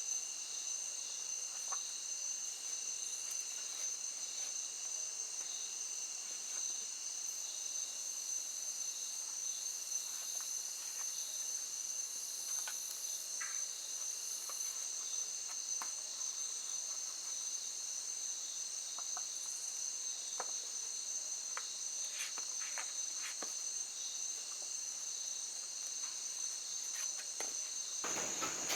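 Evening insect chorus in the rainforest: several insects trilling steadily at different high pitches, with a few faint clicks scattered through.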